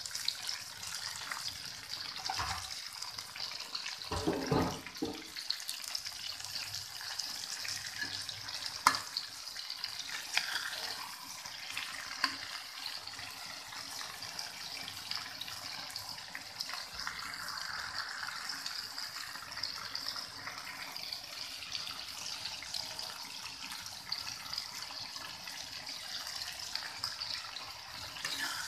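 Green beans and chicken sizzling in a steel wok, a steady hiss, with the metal spatula now and then scraping and knocking against the pan, loudest about four and nine seconds in.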